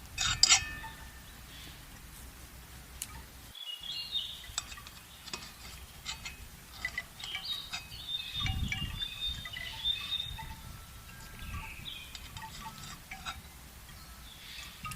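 Small birds chirping, over repeated light metallic clinks and taps, the loudest a ringing clink about half a second in.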